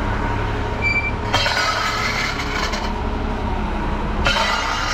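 Front-loader garbage truck's engine running steadily, with a short high beep just before a second in, then a long metallic hissing squeal that stops about four seconds in and starts again near the end.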